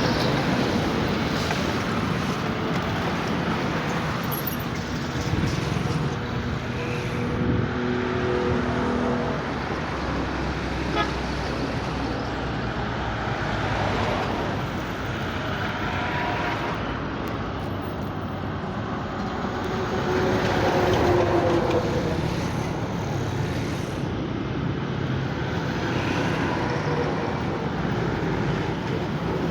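Road vehicle engines and traffic noise running steadily, with brief steady tones twice, about seven and twenty-one seconds in.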